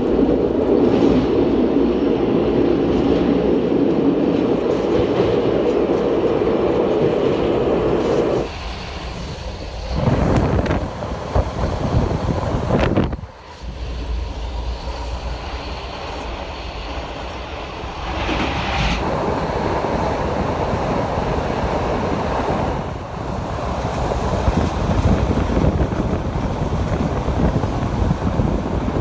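Passenger train running along the track, heard from an open carriage window as a steady rumble of wheels on rails with wind on the microphone. The sound shifts abruptly several times.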